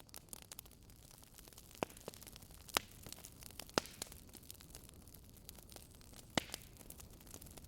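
Wood fire crackling in a fireplace: a low steady hiss with scattered sharp pops, the loudest four coming about two, three, four and six and a half seconds in.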